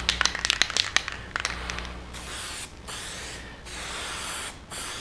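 Aerosol spray paint can: a rapid rattle of clicks for the first couple of seconds, then spraying in hissing passes about a second long, broken by short pauses.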